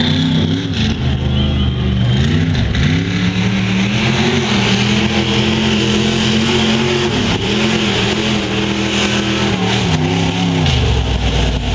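Monster truck's engine revving hard in repeated surges, its pitch climbing and dropping several times and held high through the middle, then falling back lower near the end. A hissing rush runs over the engine through the middle.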